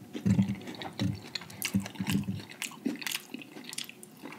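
Close-miked wet chewing and mouth clicks from a mouthful of battered fried lobster tail, with a few low muffled thumps in the first half.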